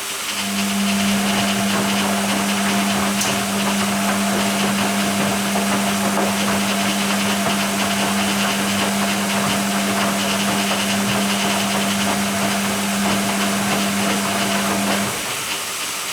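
Hoover Keymatic A3112 washing machine during its dilution fill, with water running into the drum and a steady noisy wash sound. A steady low hum switches on about half a second in and cuts off sharply about a second before the end.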